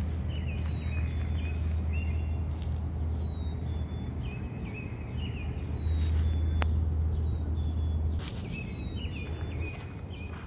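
A small songbird repeating short high chirps in little phrases over a steady low rumble; the rumble is loudest between about six and eight seconds in. A few faint clicks come and go.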